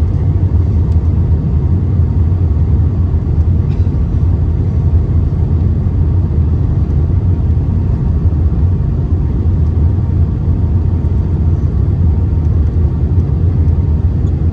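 Steady, loud low rumble inside an Airbus A319's passenger cabin: engine and airflow noise as the airliner lands.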